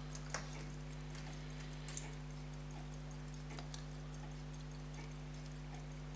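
A few faint, irregular clicks of small metal tools against a fusee pocket watch movement as a stuck part is worked free, over a steady electrical hum.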